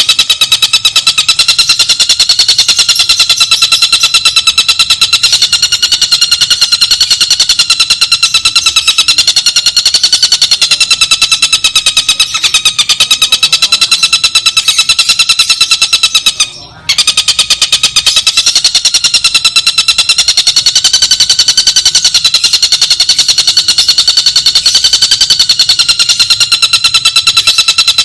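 Recorded bird calls for songbird tutoring: a continuous, shrill, rapid buzzing trill with a very fast even pulse. It breaks off briefly a little past halfway and then resumes.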